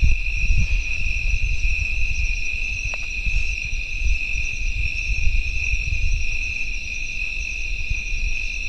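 Night insect chorus of crickets, a steady, unbroken high trilling in several overlapping pitches, over a low rumble.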